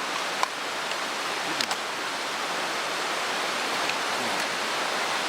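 Mountain stream rushing steadily, with two short clicks in the first two seconds.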